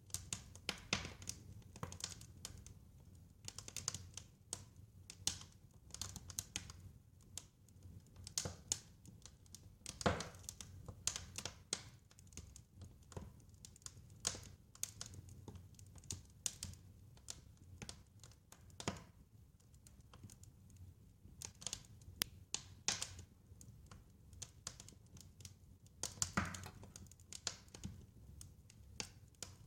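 Wood fire crackling, with irregular sharp pops and snaps, a few louder ones, over a faint low rumble.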